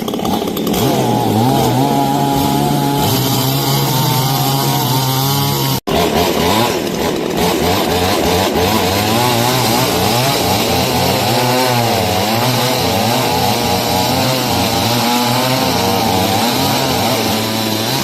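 Gasoline chainsaw running and cutting through a large fallen tree, its engine pitch rising and falling as it works. The sound drops out for an instant about six seconds in.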